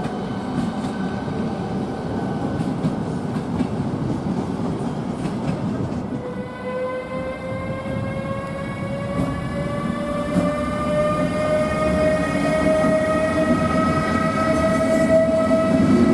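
Electric train's traction motors whining over the low rumble of wheels on track, the whine starting about six seconds in and rising slowly and steadily in pitch as the train gathers speed.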